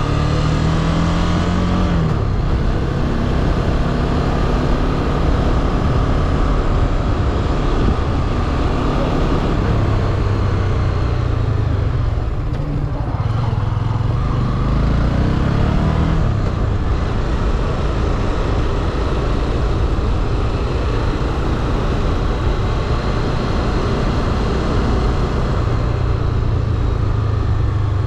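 Motorcycle engine running under way, its note dropping about two seconds in, then climbing and dropping again around halfway as the rider accelerates and shifts gear, with rushing wind noise over the ride.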